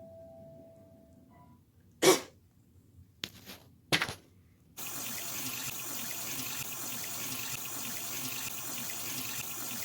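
A few short, sharp noises, the first the loudest, then water from a tap is turned on about five seconds in and runs steadily.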